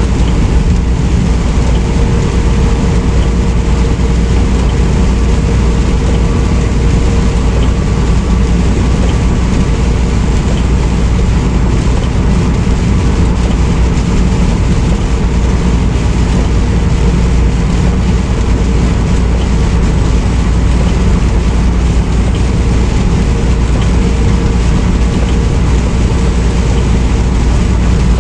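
Steady in-cab drone of a semi truck at highway speed: a loud low rumble of engine and road noise with a faint steady hum above it.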